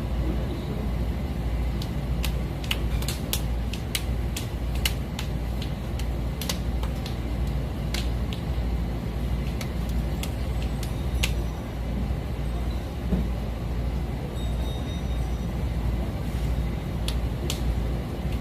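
Steady low rumble with a noisy background hiss and scattered sharp clicks throughout.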